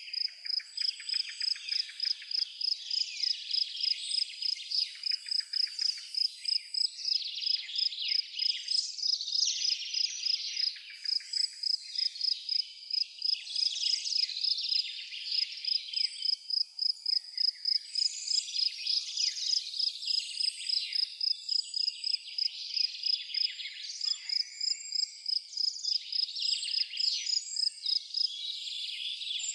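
A cricket chirping in a steady, rapid pulse on one high note, over many songbirds twittering and calling.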